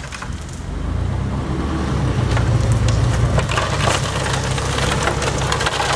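Truck engine picking up about a second in and running steadily under load, with crunching and clattering from the cargo as it is unloaded.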